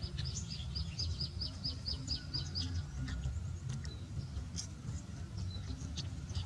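A bird calling in a quick run of short, high chirps, about four or five a second, which stops about three seconds in, followed by scattered single chirps. A steady low rumble runs underneath.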